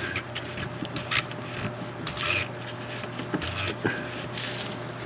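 Primer pump on a MaxxForce 13 diesel engine's fuel filter housing being worked by hand: irregular clicks and scraping rubs as the plunger is pumped up and down. The pumping draws fuel through to prime the engine and push out air.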